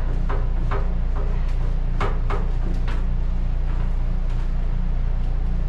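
PEX plumbing tubing being pushed down through wall framing: a string of short scrapes and knocks, most of them around two to three seconds in, over a steady low hum.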